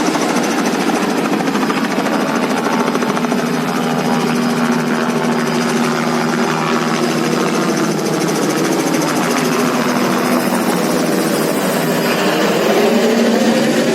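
BMW X5 M Competition's 4.4-litre V8 running steadily under way, its pitch rising over the last few seconds as the revs climb.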